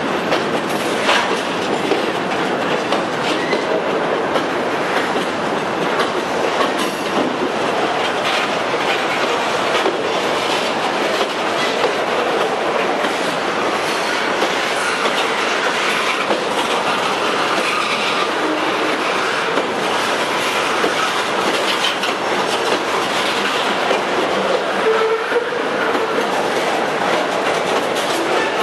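Freight cars of a slow-moving train rolling past close by: steady noise of steel wheels on the rails, with scattered clanks over the joints and a faint wheel squeal now and then.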